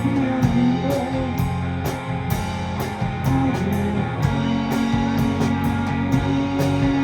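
Rock band playing live: guitar, bass and keyboards over drums, with cymbals struck at a steady pace.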